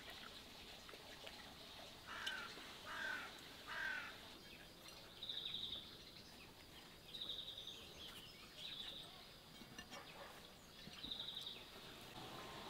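Birds calling: three short, harsh calls about a second apart, then a short, high trill repeated four times over the following six seconds.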